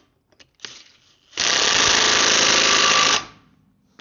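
Impact wrench hammering a bolt tight on a Land Rover Defender 90 hub during a wheel bearing fit, in one loud run of about two seconds starting a little over a second in, with a few light clicks from fitting the socket before it.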